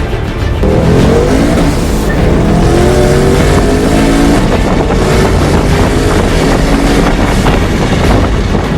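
Twin-turbocharged Ford Mustang V8 running hard on a chassis dyno, its engine note climbing in pitch in two sweeps within the first few seconds, then holding high and loud.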